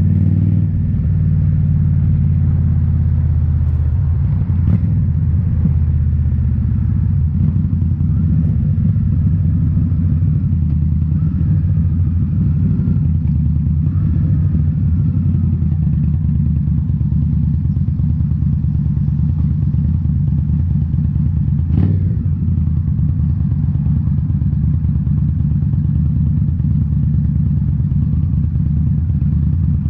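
Indian Scout Bobber's V-twin through Rinehart slip-on mufflers, running steadily with small rises and falls in revs. A single sharp knock comes about two-thirds of the way through.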